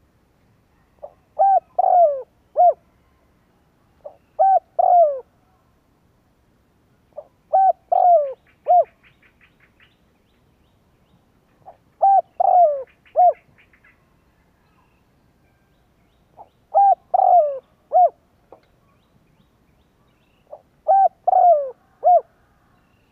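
Spotted dove cooing: six phrases of three or four coos each, repeated about every four seconds, the territorial song used as a lure call to draw in wild doves. Twice between phrases there is a faint quick series of ticks.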